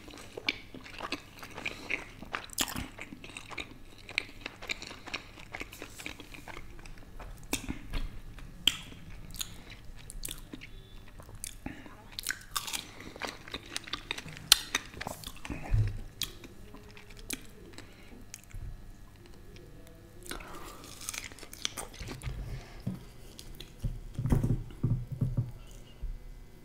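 Close-miked chewing of marshmallow: wet mouth clicks and smacks, going on in irregular bursts.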